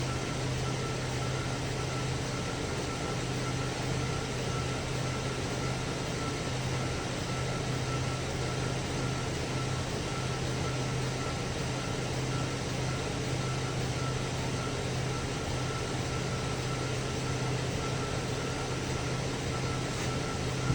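2010 Chevy Traverse's 3.6-litre V6 idling steadily, with a faint steady whine above the engine note. This is the engine that has logged misfire codes for cylinders 1, 3 and 5.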